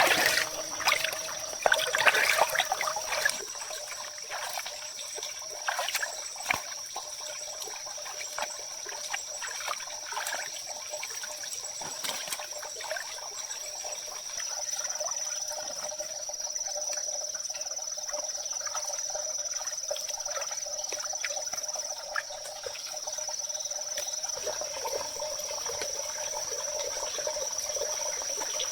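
Water trickling, with a steady high-pitched insect drone and scattered small clicks and knocks.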